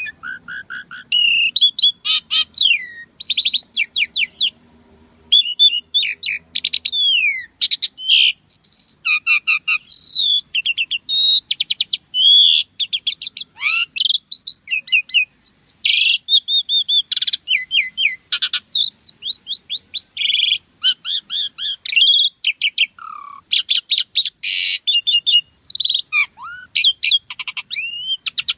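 Asian pied starling singing a long, loud, varied song. It is a nonstop string of quick chirps, rising and falling whistles and buzzy rattles, packed with the mimicked phrases keepers call 'isian'.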